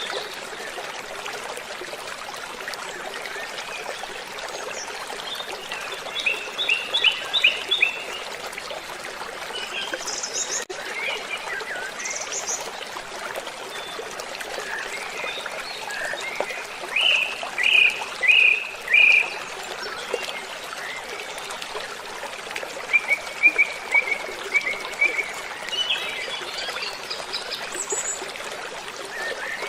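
Steady rush of falling water, with birds calling over it in several runs of short, quickly repeated high notes, the loudest runs a little past the middle.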